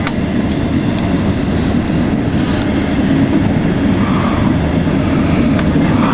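Running noise of a regional passenger train heard from inside the carriage: a steady low rumble of wheels on rail, with a few sharp clicks as the wheels cross rail joints or points.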